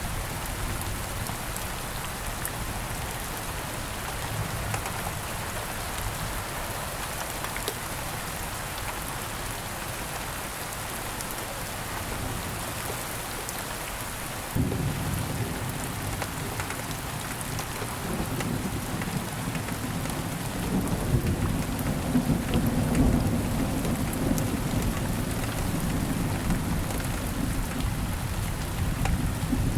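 Steady rain falling. About halfway through, a low rumble of thunder comes in suddenly and swells louder toward the end.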